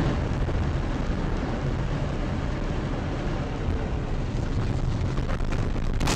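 Steady low rumble of road and engine noise inside a car, heard through a dashcam microphone.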